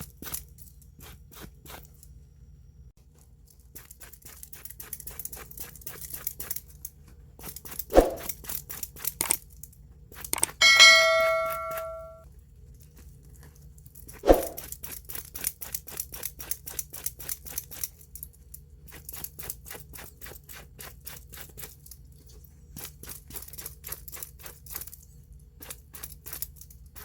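Repeated short rubbing strokes on a small metal part of an old watch, worked by hand in one direction. There is a sharp knock about eight seconds in and another a few seconds later, and between them a metal piece rings briefly, like a clink.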